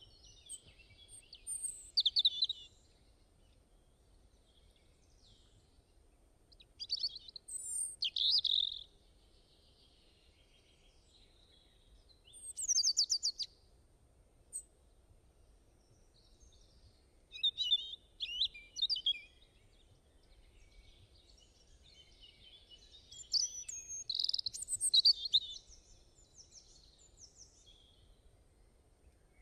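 Songbirds singing in short, quick chirping phrases, about one phrase every five seconds, with quiet gaps between them.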